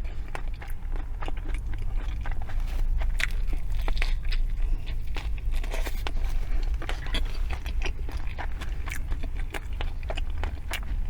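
Close-miked chewing of a McDonald's McRib sandwich: irregular wet clicks and soft crunches of bread, sauced pork patty and onions being bitten and chewed, with a steady low hum underneath.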